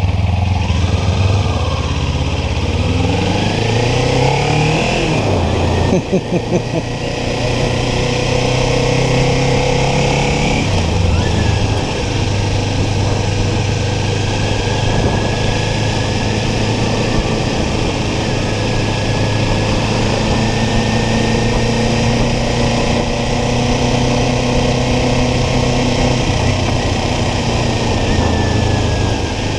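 Kawasaki Ninja 400's parallel-twin engine accelerating, its pitch rising and dropping as it shifts up about six seconds in and again near eleven seconds, then running steadily at cruising speed. Wind rush on the microphone runs under it.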